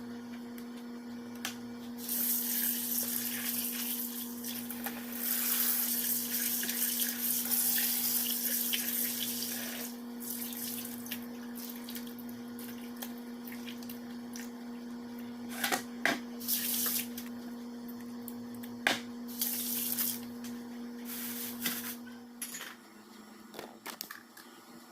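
Water running from a kitchen tap for several seconds, over a steady electrical hum, followed by a few sharp clatters. The hum cuts off near the end.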